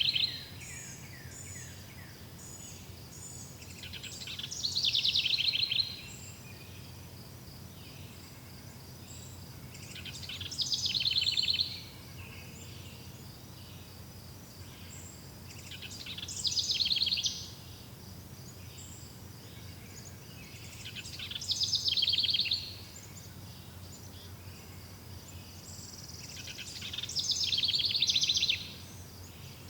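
A songbird repeating the same short, fast trilled song about every five to six seconds, each phrase swelling in loudness and then stopping abruptly. A faint steady high chirring runs underneath.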